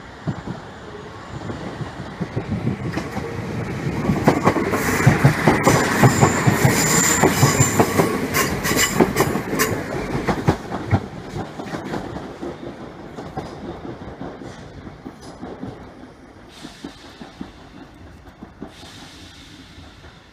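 A train passing on the line, its wheels clicking rapidly over the rail joints. It builds up, is loudest from about four seconds in until about eleven seconds, then fades away.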